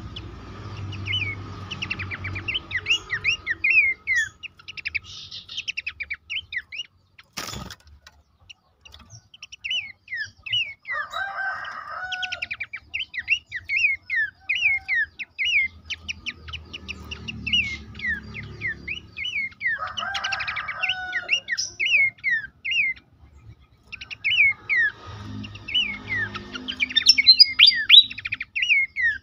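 Pelanduk semak (Horsfield's babbler) calling: long runs of rapid, short down-slurred notes, broken by a few lower warbled phrases, with a single sharp click about seven seconds in.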